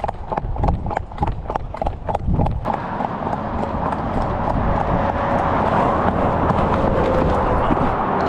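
A horse's hooves clip-clopping at a quick pace on hard ground. About three seconds in, the hoofbeats give way to a steady rushing noise.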